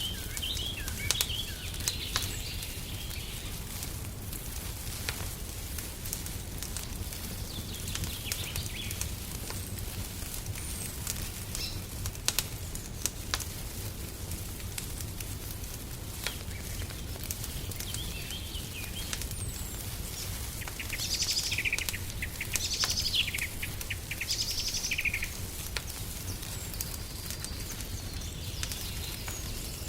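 Wood fire crackling in a fireplace, with scattered sharp pops over a steady low rumble, while small songbirds chirp and twitter in short bursts, busiest about two-thirds of the way through and again at the end.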